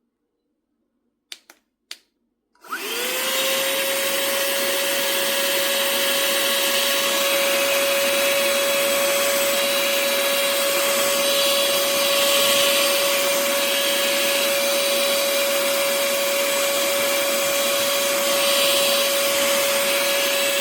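Two faint clicks, then the Tiazhan handheld vacuum's small motor starts almost three seconds in. Its whine rises quickly and settles into a steady, high-pitched hum over a rush of air.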